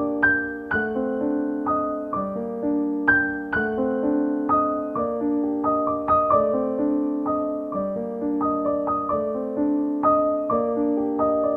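Background piano music: a gentle melody of struck notes over a repeating accompaniment at an even pace.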